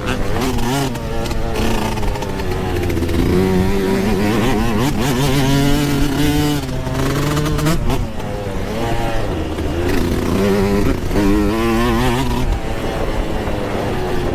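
Yamaha YZ125 single-cylinder two-stroke dirt bike engine revving hard on and off the throttle, its pitch rising and dropping several times.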